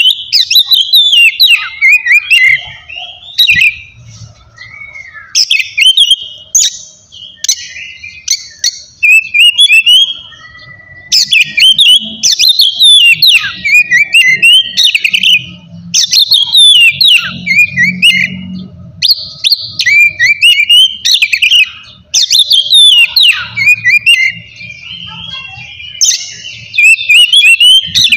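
Oriental magpie-robin (kacer) singing loudly, a varied song of rapid whistled and chattering phrases delivered in bursts with short pauses between them.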